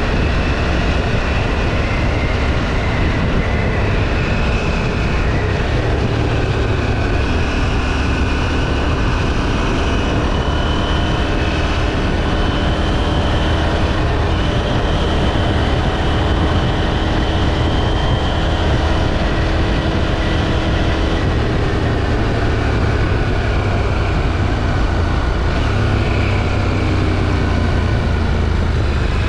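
KTM 790 Duke's parallel-twin engine through its stock exhaust, running under way at a steady road pace. Its pitch rises and falls gently with the throttle, over a constant low rush of wind and road noise.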